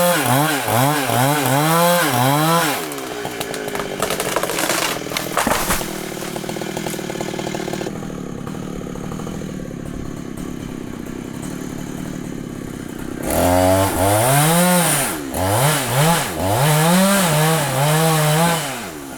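Large two-stroke Husqvarna chainsaw revved in quick repeated throttle blips, dropping to a lower, rougher running for about ten seconds in the middle, then blipped up and down again near the end.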